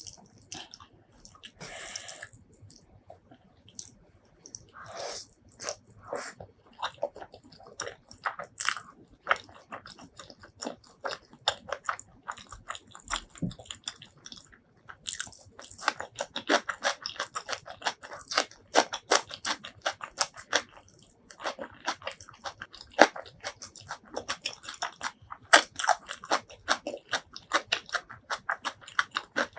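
Close-miked mouth sounds of a person eating: bites and chewing with crisp, rapid crunching, coming in runs broken by short pauses.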